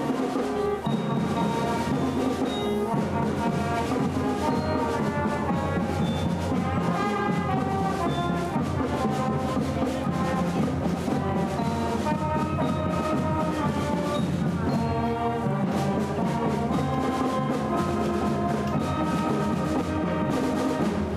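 High school concert band playing a patriotic piece, with brass holding chords over drums and timpani.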